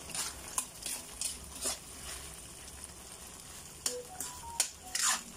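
Tomato-and-onion sauce sizzling in a wok as a spatula stirs it, with a string of short scrapes and knocks of the spatula against the pan.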